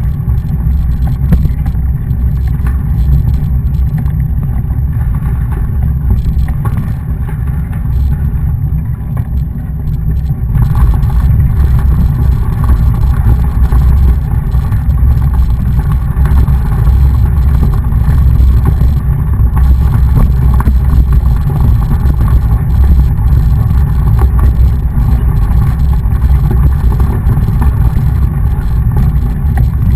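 Wind rumbling on the microphone of a camera carried on a moving mountain bike, a loud, steady low rumble. It eases a little for a few seconds and picks up again about ten seconds in.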